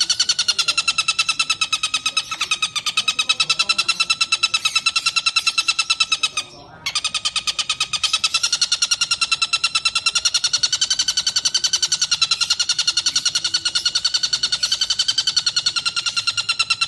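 Tengkek buto kingfisher calling in a continuous, rapid rattle of evenly spaced notes, broken once by a brief pause about six and a half seconds in.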